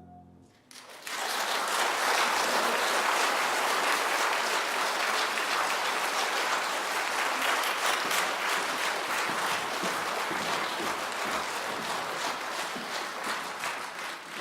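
Audience applauding, beginning about a second in right after a sung number ends, holding steady and tapering near the end.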